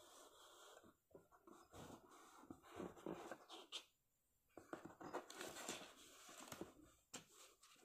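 Near silence: faint room tone with soft, irregular rustling and a few small clicks.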